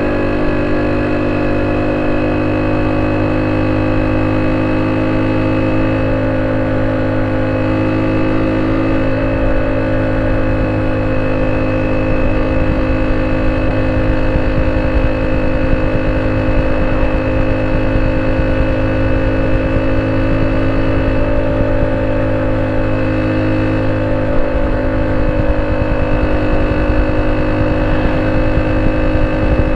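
Honda C70's small single-cylinder four-stroke engine running steadily through an aftermarket exhaust, with a slight change in note about nine seconds in.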